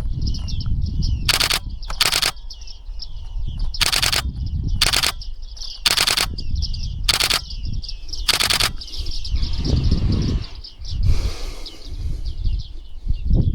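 A flock of bearded reedlings calling continuously, many short high calls overlapping. Seven brief loud bursts of noise cut across the calls in the first nine seconds, over a low rumble.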